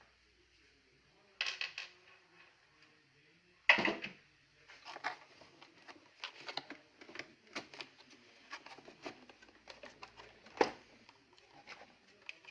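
Irregular small clicks and knocks of a vacuum cleaner's housing and parts being handled during disassembly to remove its motor, with a short clatter early on and two sharper knocks, one about a third of the way in and one near the end.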